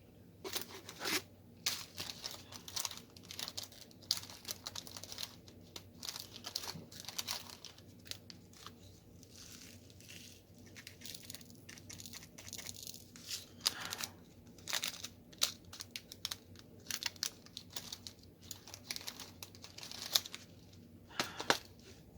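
Thin plastic crinkling and rustling in short, irregular bursts as diamond painting materials are handled.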